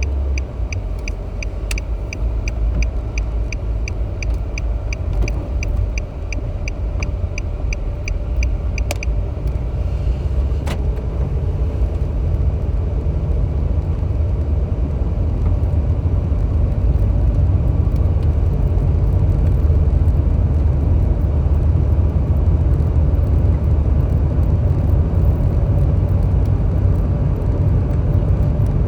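Car cabin road noise from tyres and engine while driving, growing louder as the car picks up speed. For the first nine seconds a turn-signal indicator ticks steadily, about two or three clicks a second, then stops.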